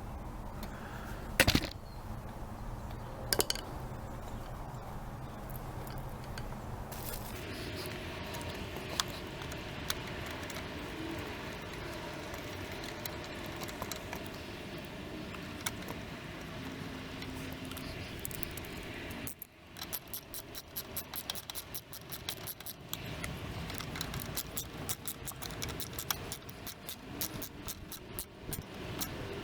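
Small metal parts and hand tools handled during carburetor reassembly: clicking and rattling, with two sharp knocks a couple of seconds apart near the start and denser rapid clicking in the second half.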